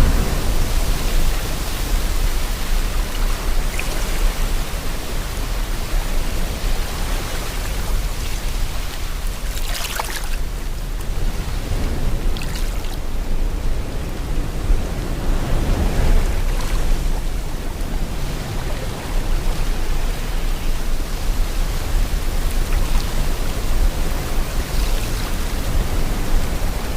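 Sea water washing and wind, a steady rushing noise with a low rumble, swelling briefly about ten seconds and sixteen seconds in.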